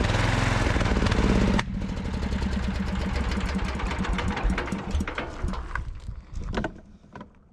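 MTD 990 garden tractor's small engine running loudly, then dropping off abruptly about a second and a half in. It runs on unevenly and winds down to a stop with scattered pops, backfiring as it dies.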